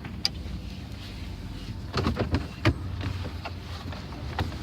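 Truck driving, a steady low rumble, with several sharp knocks and rattles, clustered about two seconds in and again near the end.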